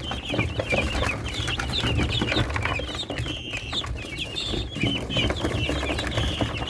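A flock of young guinea fowl keets, about six weeks old, cheeping and chirping together: many short, high calls overlapping, with a low rumble underneath.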